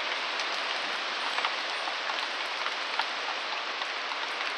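Steady rain falling, with scattered sharp drop ticks, from an outer rain band of a hurricane.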